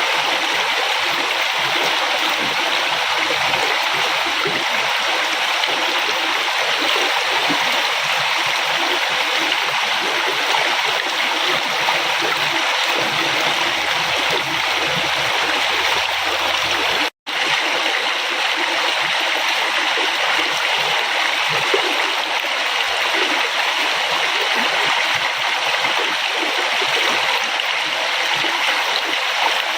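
A flowing river: steady rushing water. It cuts out for an instant about seventeen seconds in, then carries on unchanged.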